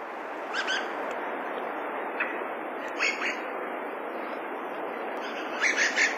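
Dusky thrush calls: short, sharp high notes in four small clusters, the last a quick run of several, over a steady background hiss.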